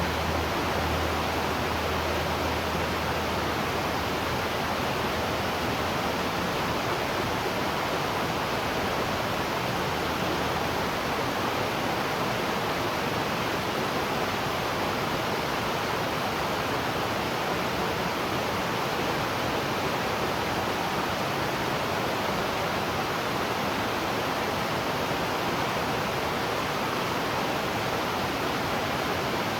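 Waterfall with a steady, even rushing of falling water. A low hum fades out in the first few seconds.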